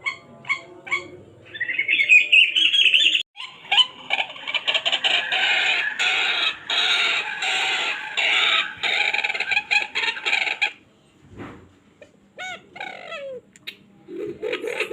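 Recorded bird calls played back through a homemade MP3 bird-caller speaker box: a rising call, then a dense run of chirps and calls that breaks off abruptly about eleven seconds in, followed by shorter separate calls.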